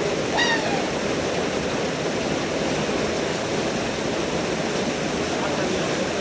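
Steady rush of a waterfall's falling water, with one brief high call that falls in pitch about half a second in.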